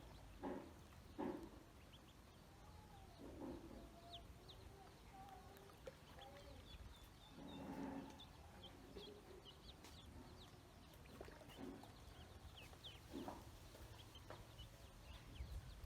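Ducklings peeping: many short, faint, high chirps that fall in pitch, with a few lower, louder calls from a larger bird scattered among them.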